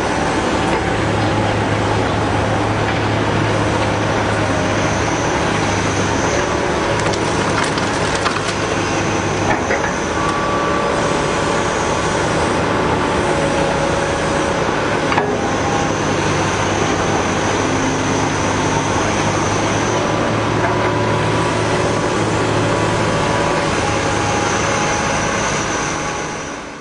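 Caterpillar 245B hydraulic excavator at work, its diesel engine droning steadily with shifting hydraulic whine over it, and a couple of sharp knocks along the way.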